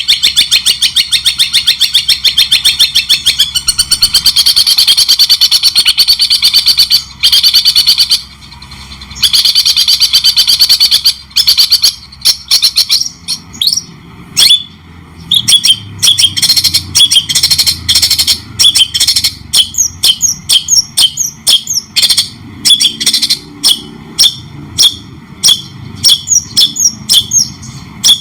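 A songbird singing loud, clear cendet (long-tailed shrike) style song: a rapid chatter of fast-repeated notes for about the first eleven seconds, then separate sharp notes sweeping up and down, one or two a second.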